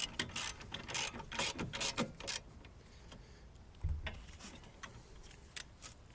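Irregular metallic clicks and clatter of hand tools working on a car's front strut and its mounting bolts, with a dull thump about four seconds in.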